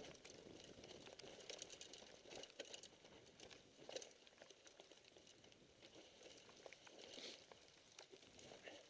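Mountain bike descending a wet trail in heavy rain: faint, irregular patter with scattered sharp clicks and rattles.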